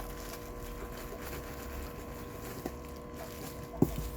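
Handling noise from a bundle of dried stick-insect specimens being lifted and sorted: a few light knocks, the sharpest about a second before the end, over a steady low hum.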